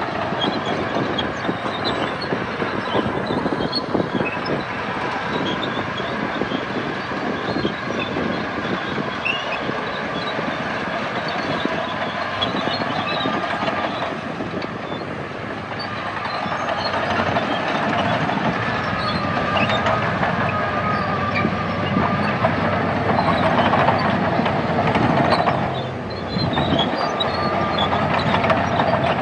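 Crawler bulldozer working: diesel engine running under load with its steel tracks clattering, a dense continuous mechanical din that grows louder about halfway through and dips briefly near the end.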